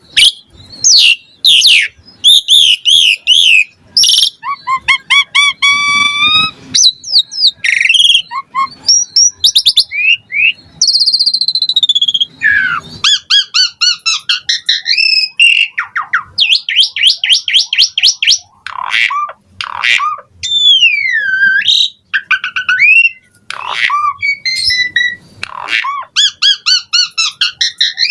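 Asian pied starling (jalak suren) in full song: a long, varied run of loud whistles, rising and falling glides, rapid trills and harsh rasping notes, with hardly a pause.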